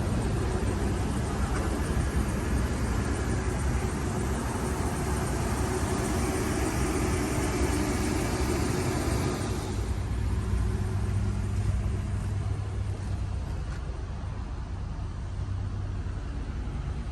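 A motor vehicle running: a broad rush that eases about ten seconds in, leaving a lower, steady hum.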